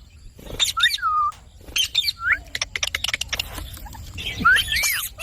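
Indian ringneck parakeet giving short whistled calls and chirps that glide up and down, with a quick run of clicks in the middle and a louder rising-and-falling call near the end.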